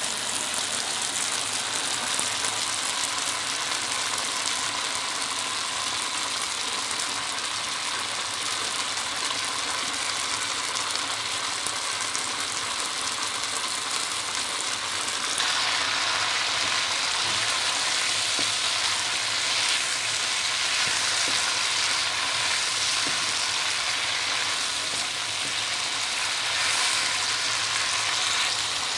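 Red chilies, tomatoes, shallots and garlic sizzling steadily in hot oil in a wok as they are stirred with a wooden spatula. The sizzling grows louder about halfway through.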